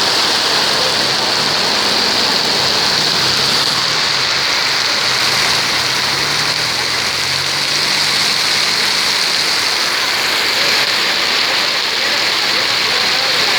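Heavy rain falling and pattering on surfaces, a dense, steady hiss. A faint low hum sits underneath for roughly the first half.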